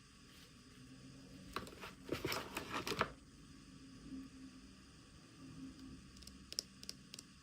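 Toy packaging being handled and opened: about a second and a half of crackly rustling and clicks, then a few sharp clicks near the end.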